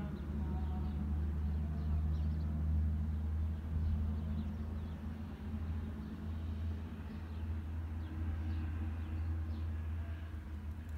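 Steady low rumble of an idling vehicle engine, with faint bird chirps above it.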